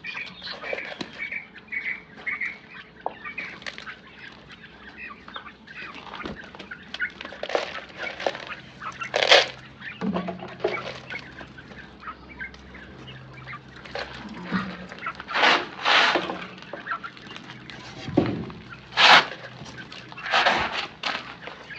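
Chickens calling, with short loud calls every second or so over quieter clucking.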